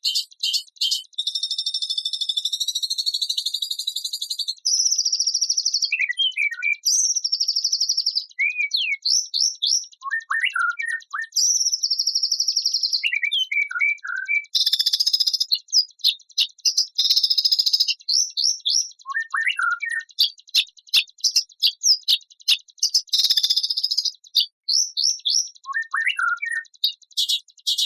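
Recorded songbird song of the kind used as training material for white-rumped shamas: rapid high buzzy trills and rattles, long runs of quick sharp ticks, and short chirps that sweep downward, with a couple of harsh hissing notes in the middle and near the end.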